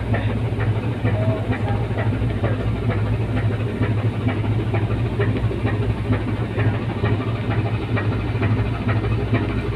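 A boat's engine running steadily: a constant low hum with a rapid clattering tick over it.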